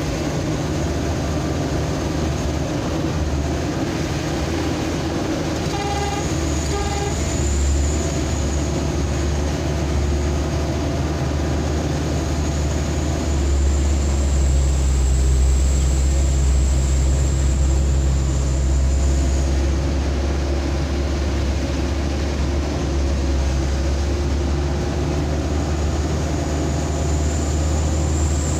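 A road vehicle driving along, its engine and road noise a steady drone that swells a little partway through. About six seconds in, the horn gives two short beeps.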